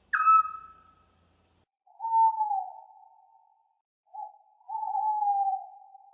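Owl hooting. A sharp, higher call opens, then comes one long hoot about two seconds in, and a short note followed by a long, slowly falling hoot a little after four seconds.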